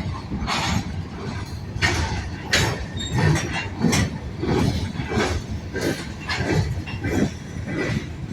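Freight train rolling past, a steady rumble with repeated metallic clanks and clicks from the wheels and cars.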